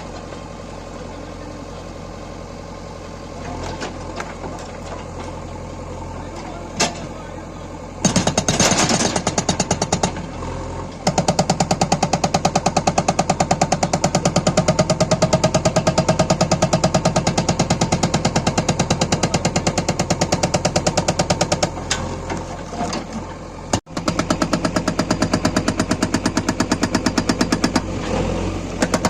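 Hydraulic rock breaker on a JCB 3DX backhoe loader hammering stone in rapid, evenly spaced blows over the backhoe's running diesel engine. For the first several seconds only the engine is heard. The hammering starts about a quarter of the way in, stops briefly, then runs on with a short break near the end.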